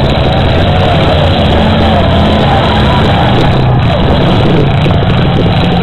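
Demolition derby cars' engines running loud and steady in the arena.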